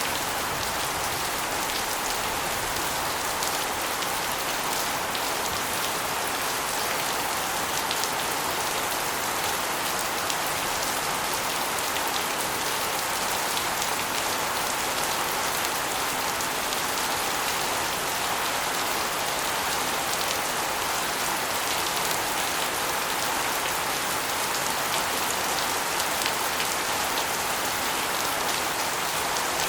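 Steady rain, with water spilling off an asbestos roof and splashing onto a concrete floor and walls in a dense patter of drops.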